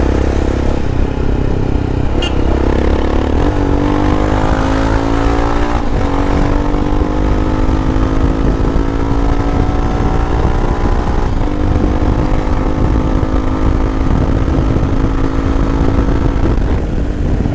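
Royal Enfield Himalayan's 411 cc air-cooled single-cylinder engine under way, its note rising for a few seconds and then running nearly steady at speed with a few brief dips, over heavy wind rush.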